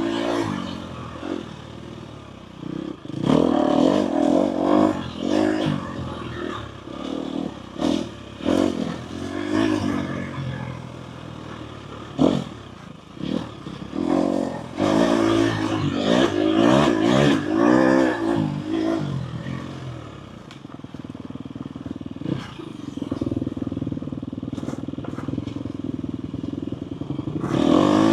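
Four-stroke dirt bike engine revving up and easing off again and again, with clattering knocks from the bike over rough ground. It settles into a steadier, lower run over the last third.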